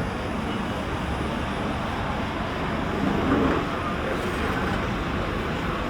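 City street ambience: a steady wash of traffic noise with a low rumble, and a brief louder swell about three seconds in.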